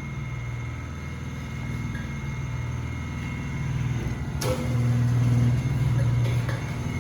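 Low, steady machine hum in a tire shop, growing louder after a sharp click about four and a half seconds in.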